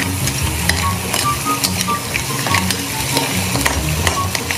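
Shrimp and green mussels sizzling in garlic butter in a pan while a metal spoon stirs them, with frequent short clicks and scrapes of the spoon against the pan.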